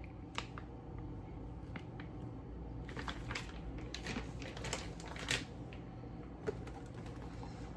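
Scattered light clicks and rustles of grocery packages being handled and set down on a counter, over a faint steady low hum.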